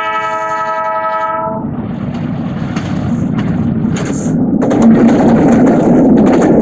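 Train horn sounding a steady chord that cuts off about a second and a half in, then the rumble of an intercity train passing close by, growing louder, with sharp repeated clacks from the wheels on the rails.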